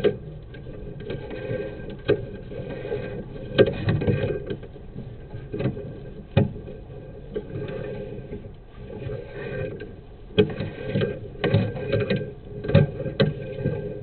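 Sewer inspection camera's push cable being fed down a sewer line: irregular knocks and rattles over a steady low rumble.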